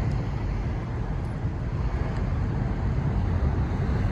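Steady rumble of road traffic, mostly low in pitch.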